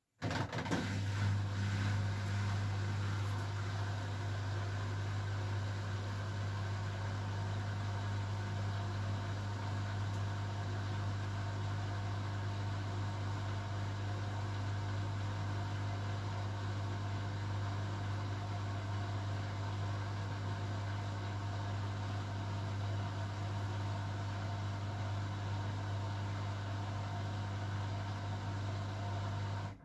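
Beko WML 51211 EL+ washing machine running steadily with a strong low hum and a few fainter higher tones over an even rushing noise. It starts and stops abruptly.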